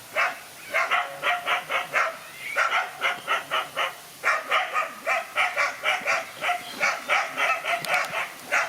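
Dogs barking in quick runs of short, sharp barks, about three to four a second, with brief pauses between runs, as dogs square up to fight.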